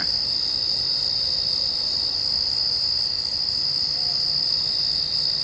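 Night insects trilling steadily at a high pitch, without a break.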